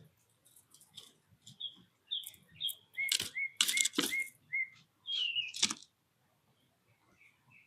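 Small wild birds chirping at a feeder, with short chirps that drop in pitch, and a few loud sharp rustling knocks in the middle. Near the end a quick run of short repeated chirps, about three a second.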